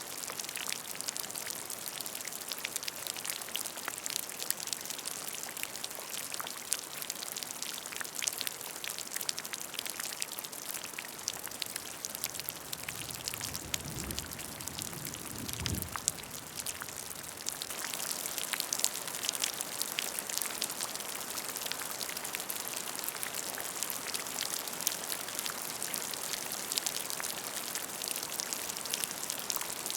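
Rain falling onto a puddle: a steady patter of countless small drops plinking into the water.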